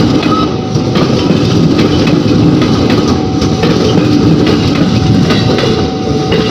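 Train running past close by, its wheels clicking and clacking over the rail joints amid a loud, steady rumble, with a faint steady whine.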